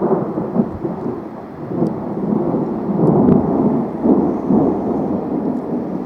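Thunder rumbling: a long, loud rumble that swells in the middle and slowly eases off.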